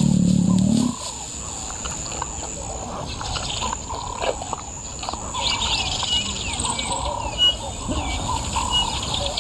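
Wild birds calling and chirping over outdoor bush ambience, the chirping thickening into a dense chorus about halfway through. A low sound stops abruptly about a second in.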